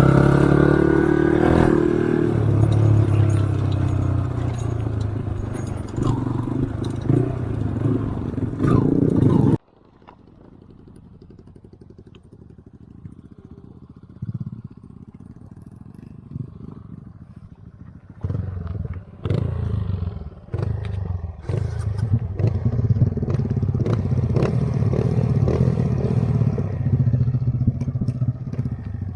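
Motorcycle engine revving, its pitch rising over the first couple of seconds, then running under load with clattering knocks. It cuts off abruptly about nine and a half seconds in, leaving a quieter stretch with a few knocks, and the engine sound returns from about eighteen seconds.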